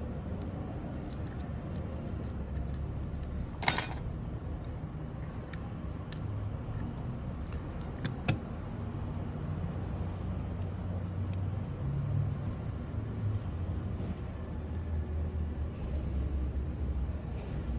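Steady low rumble of road traffic, with two sharp clicks about four and eight seconds in and a few fainter ticks.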